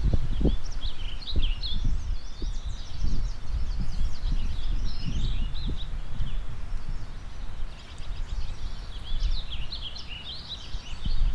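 Several songbirds singing at once, a dense run of overlapping chirps and trills that thins out around the middle and picks up again near the end. Underneath, wind gusts rumble unevenly on the microphone over the faint steady rush of a river.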